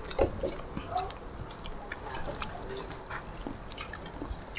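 Close-up mouth sounds of people eating by hand: chewing and lip smacks, with small clicks of fingers working rice on steel plates.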